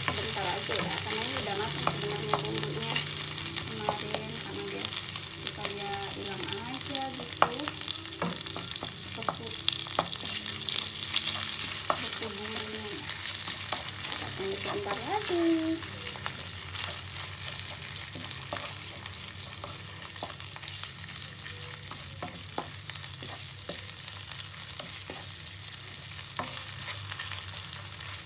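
Balinese bumbu genep spice paste and kaffir lime leaves sizzling as they fry in oil in a non-stick frying pan. A wooden spatula stirs and scrapes through them, with frequent small clicks against the pan. The sizzle is louder over the first half and eases somewhat after that.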